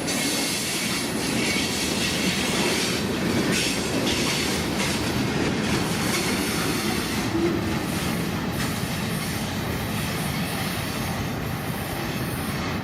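Freight train cars rolling past: a steady rumble of steel wheels on the rails, with clicking over rail joints and some wheel squeal.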